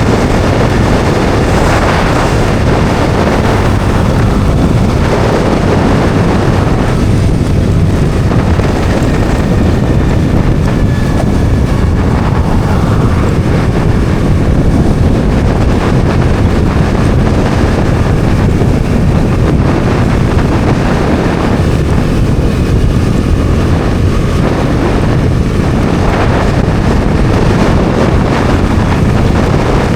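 Bajaj Dominar 400's single-cylinder engine running steadily while riding on the road, mixed with heavy wind noise buffeting the microphone.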